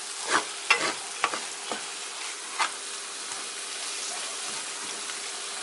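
Food frying in a pan: a steady sizzling hiss, with several light clicks and taps in the first three seconds.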